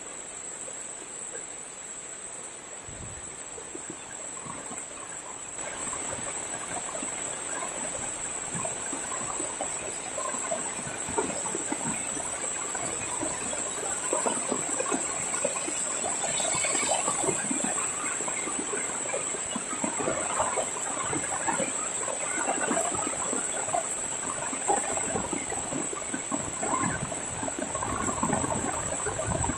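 Village ambience during heavy rain: a steady, high-pitched insect trill, with many short, irregular sounds that grow louder about six seconds in.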